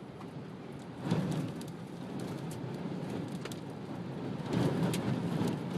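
Gusty storm wind and rain noise. It surges about a second in and again near the end, with scattered light ticks.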